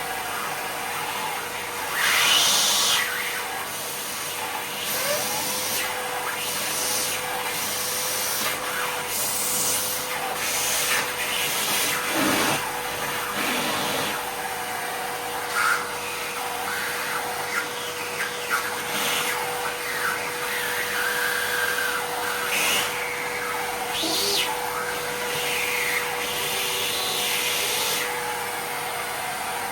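Miele vacuum cleaner running with a steady motor whine and airflow hiss, broken by irregular louder rattles and scrapes as Lego pieces are sucked up the nozzle.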